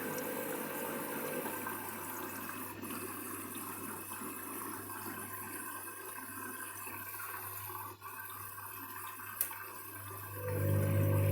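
Candy washing machine filling with water for its rinse: a steady rush of incoming water over a low machine hum, with a louder motor hum starting near the end.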